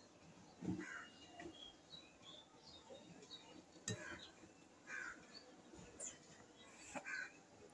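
Faint bird calls, about six short calls at irregular intervals, with a couple of light clicks.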